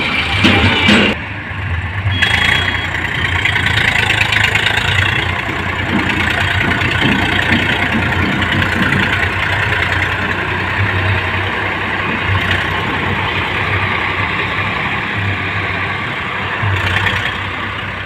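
Swaraj 855 tractor's diesel engine running steadily.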